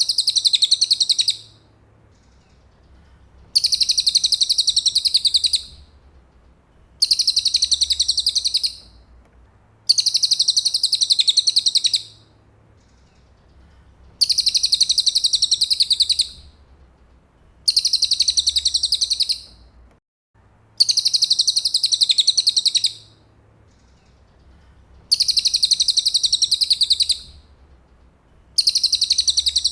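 Cililin song: a high, rapid trill of quickly repeated notes lasting about two seconds, given again and again about every three and a half seconds.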